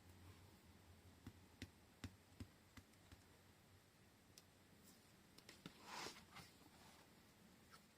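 Faint, scattered clicks and taps of washi tape rolls and paper being handled on a desk, with a brief rustle about six seconds in.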